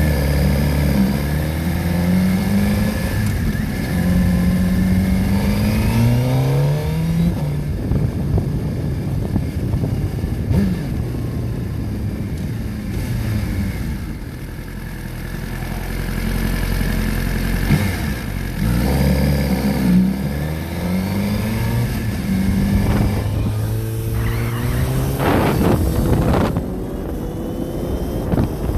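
Motorcycle engine accelerating hard through the gears, its pitch climbing and dropping at each shift, in two runs. Wind rushes over the microphone throughout.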